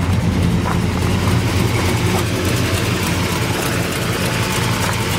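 383 V8 with long-tube headers and dual exhaust idling steadily, the motor started from cold.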